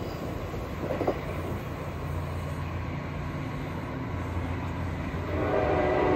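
Train with a steady low engine hum. About five seconds in, a train horn begins to blow, several notes at once.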